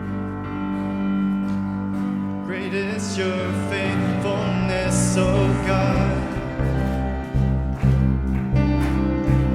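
Church praise band playing a worship song with sustained instrumental chords; a sung vocal line comes in about two and a half seconds in.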